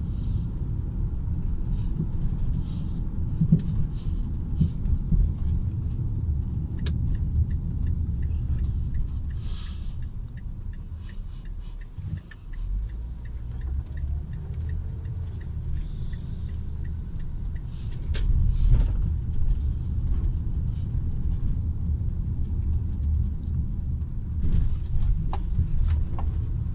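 Low road rumble inside a moving car's cabin. From about seven seconds in, the turn-signal indicator ticks about twice a second for some ten seconds while the car turns left. The rumble dips briefly about halfway through.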